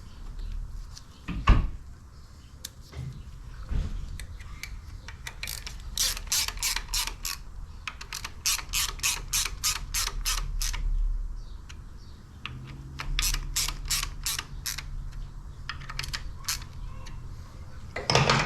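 Ratchet wrench clicking in short runs, about four or five clicks a second, as it turns the threaded drive of a cam bearing installer tool on a Harley-Davidson Evo engine case. There is one sharp knock about a second and a half in.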